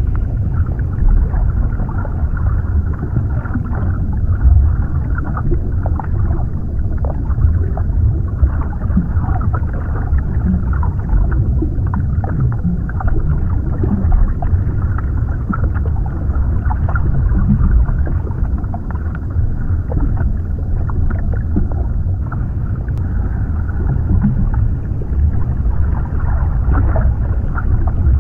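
Underwater ambience: a steady, muffled low rumble of water, with faint scattered bubbling and gurgling ticks.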